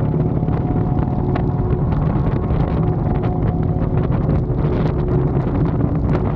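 Harley-Davidson Dyna's air-cooled V-twin engine running steadily under way, with wind buffeting the microphone.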